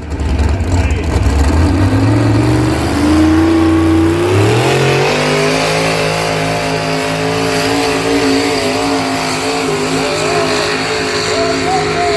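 Pulling vehicle's engine revving up over the first few seconds, then held at high, steady revs under load for the rest of the pull.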